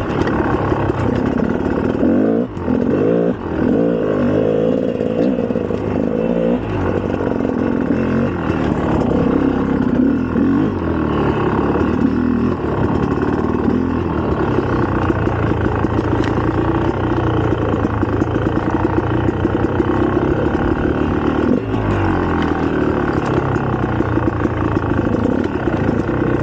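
2004 GasGas EC300's 300 cc two-stroke single-cylinder engine running under riding load, its pitch rising and falling as the throttle opens and closes, with two brief dips a few seconds in.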